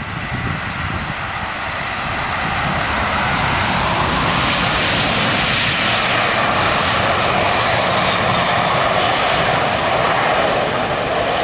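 Airliner passing on its landing approach: its engine noise grows louder over the first few seconds, holds loud, and slides down in pitch as it goes by, easing off near the end.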